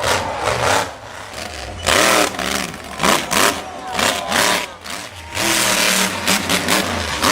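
Monster truck engine revving in repeated loud surges, rising and falling in pitch.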